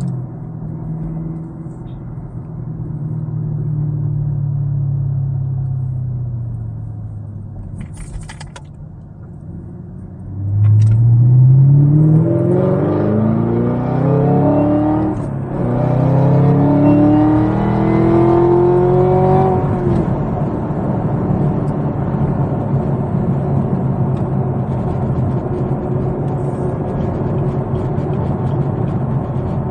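Chevrolet Camaro ZL1's supercharged V8 under hard acceleration: the engine note climbs steeply about ten seconds in, breaks twice for upshifts, then settles into a steady cruise. Before the run the engine rises and falls gently, with a couple of short clicks.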